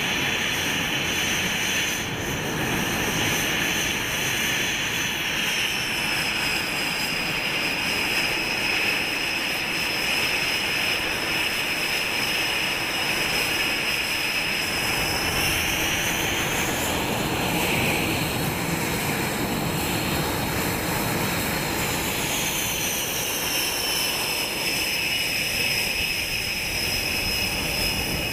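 Jet engine running: a steady rush with a high turbine whine that climbs in pitch about halfway through and drops back several seconds later.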